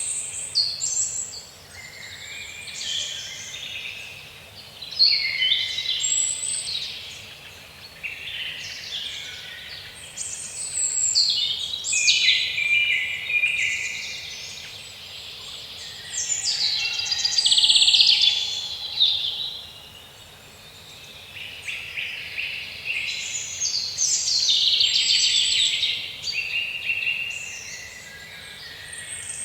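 Woodland birdsong: several birds singing and calling over one another, a continuous chorus of high chirps and trills that swells and fades every few seconds.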